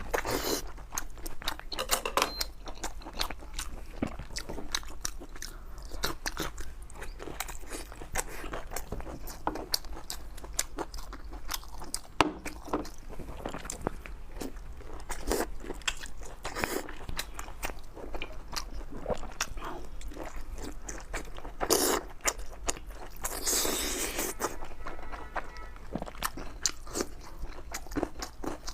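Close-miked biting and chewing of taochang, braised pork intestine: a steady run of wet smacks and crunchy clicks from the mouth, with a few louder bites about two-thirds of the way in.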